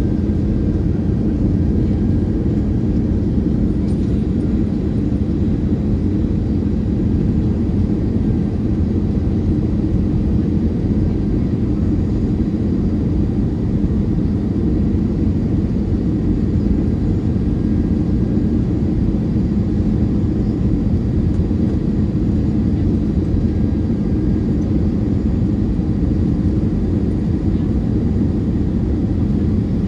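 Steady low roar inside the cabin of an Airbus A320-212 on approach: the CFM56 engines and airflow over the fuselage, with a few faint steady tones above the roar.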